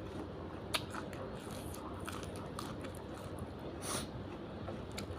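A person chewing and eating food close to the microphone, with a sharp click about a second in and a louder brief burst about four seconds in.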